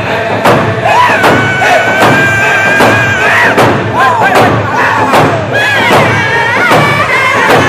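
Native American round dance song: several singers sing in high, sliding voices over a steady hand-drum beat, about two beats a second. One long high note is held near the middle.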